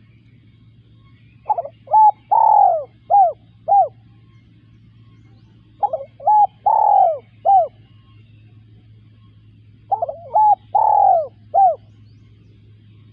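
Spotted dove cooing: three phrases about four seconds apart, each of about five notes with a longer third note. A faint steady low hum lies underneath.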